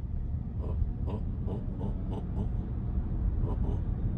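Steady low road and tyre rumble inside the cabin of a Tesla Model Y under way, with a run of short, irregular ticks in the first half and two more later.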